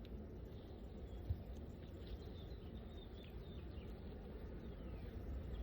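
Quiet outdoor background with a low rumble, a few short bird chirps in the middle, and one soft knock a little over a second in.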